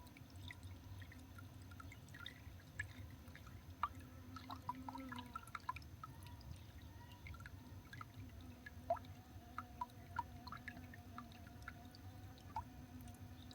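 Faint, irregular ticks and brief high notes from small garden birds at a seed feeder, over a low steady hum.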